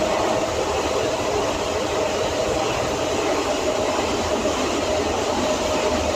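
Docklands Light Railway train running through a tunnel, heard from inside the car: steady rolling noise with a whine that fades and comes back near the end.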